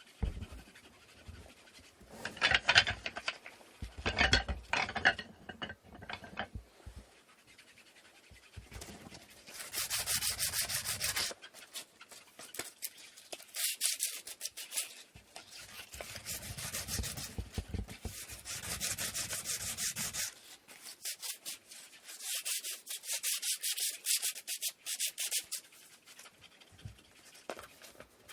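Wood being hand-sanded with sandpaper in repeated back-and-forth strokes, each a second or two long, after a few knocks of wood being handled in the first seconds.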